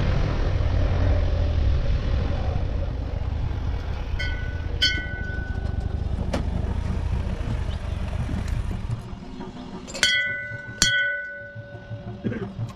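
Motorcycle on the move: steady engine rumble and rushing wind noise that fades about nine seconds in as the bike slows. Short high-pitched beeps sound once about five seconds in and several times near the end.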